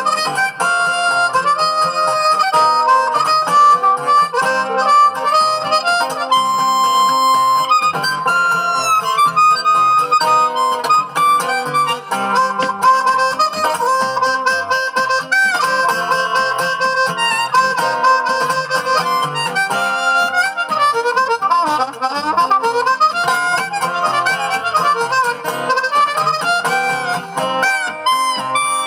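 Instrumental break in a song: a harmonica solo with held and bent notes over guitar accompaniment.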